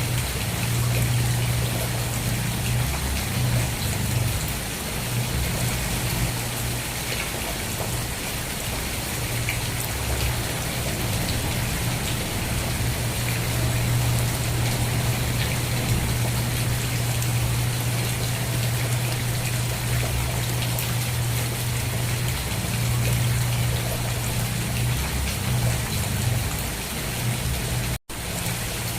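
Steady, heavy rain: a dense hiss of falling drops over a low, continuous rumble. It cuts out for an instant about a second before the end.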